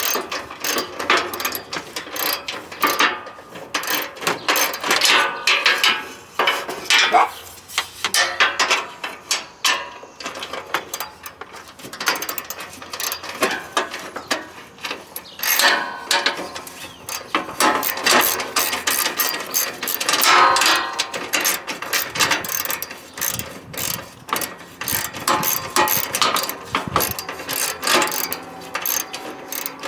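Hand ratchet wrench clicking in quick runs as bolts are turned, with brief pauses between runs.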